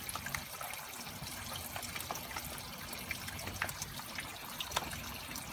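Water trickling and dripping in a greenhouse sump, with scattered separate drips.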